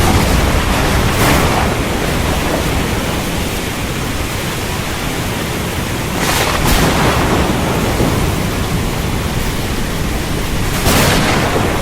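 Heavy rain falling steadily with a low rumble of thunder, with brief louder surges about a second in, around six seconds in and near the end.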